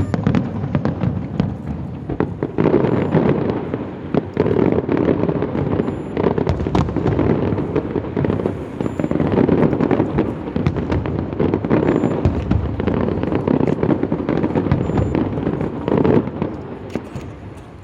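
Fireworks going off in a dense, continuous barrage: many sharp bangs and crackles running into one another, thinning out near the end.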